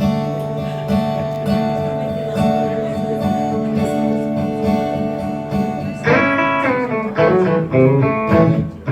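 Live guitar playing a song's instrumental intro: held chords with a pulse about twice a second, then louder picked notes from about six seconds in.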